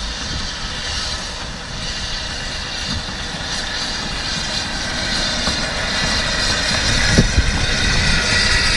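Narrow-gauge steam locomotive pulling a train away from a station under steam, getting louder toward the end as it draws nearer.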